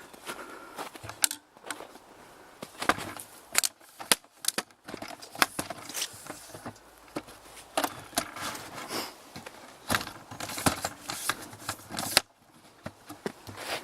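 Irregular crunching footsteps and clicks of handling noise as the camera is carried by hand, ending abruptly about twelve seconds in.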